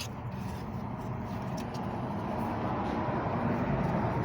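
Volkswagen Golf Mk4 engine running at idle with a steady, rough rumble. The car has a misfire caused by oil from a leaking valve cover gasket fouling an ignition coil.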